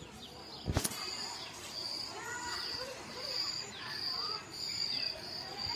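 An insect chirping: a high-pitched chirp repeating evenly, about three every two seconds, with one sharp knock about a second in. Faint scattered calls or voices sit underneath.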